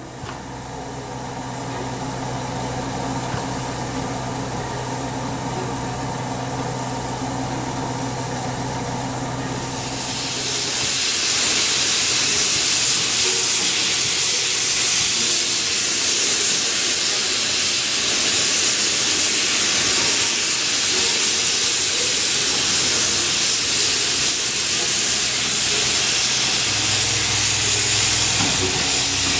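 Steam locomotive standing in steam, with a steady low hum. About ten seconds in, it starts blowing off steam in a loud, steady hiss that carries on unbroken.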